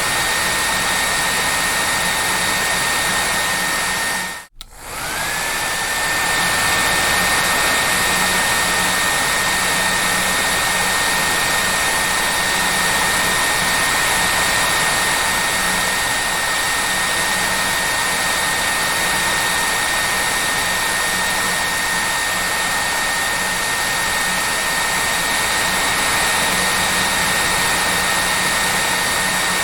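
Hair dryer running with a steady airflow rush and a high motor whine. About four seconds in, it cuts out for a moment, then comes back with the whine rising as the motor returns to speed.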